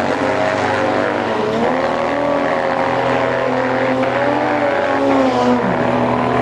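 Racing engines running, several at once, their pitch drifting up and down as the revs change.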